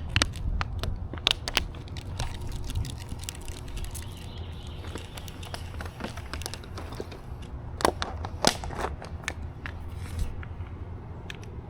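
Footsteps on a woodland trail, with scattered crackles and snaps underfoot, over a steady low rumble.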